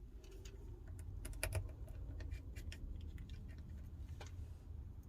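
Small, sharp clicks and taps of a precision screwdriver and small metal parts on an iPhone 12's internals as screws are taken out. They come irregularly, a cluster in the first few seconds and one more near the end, over a steady low hum.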